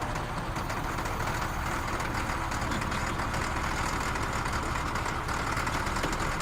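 A motor running steadily with a fast, even rattle-like pulsing and a low rumble, unchanging throughout.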